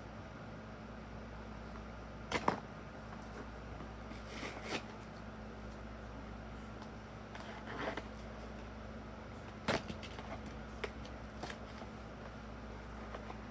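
Scattered short clicks and clacks of hard plastic being handled, with brief rustles, as Beyblade toy parts and their packaging are unboxed. A double clack comes about two and a half seconds in, with single clicks spread through the rest, over a faint steady hum.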